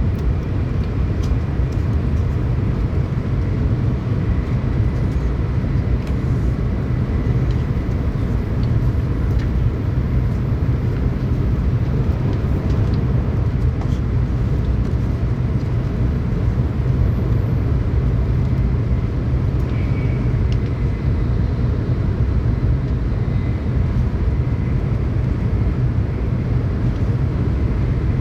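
Tokaido Shinkansen train running at speed, heard from inside the passenger car: a steady low rumble of running gear and track with a faint hiss above it, even throughout, with a few faint ticks.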